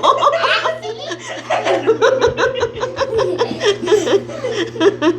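People laughing, a run of quick, rhythmic 'ha-ha' pulses, about four or five a second, over a steady low hum.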